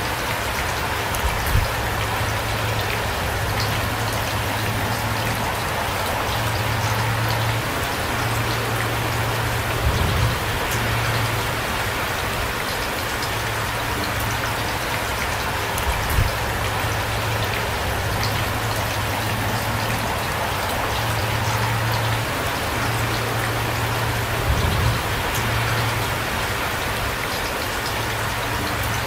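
Steady heavy rain falling and pattering on surfaces, with a few louder drop impacts about ten, sixteen and twenty-five seconds in.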